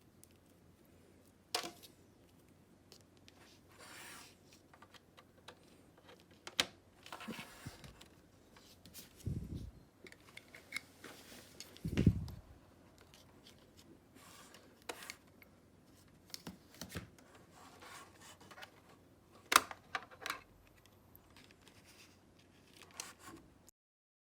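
Packaging and a small plastic gadget being handled: scattered rustling, tearing and sharp clicks, with two dull thuds about nine and twelve seconds in. The sound cuts off abruptly near the end.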